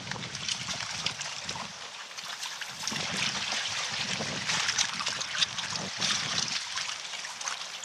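Hailstones falling on the water and on the canoe: many small rapid hits over a running water noise.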